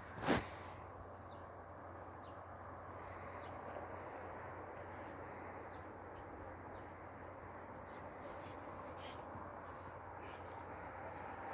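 Faint steady background noise with a low hum, after a short rustling knock right at the start.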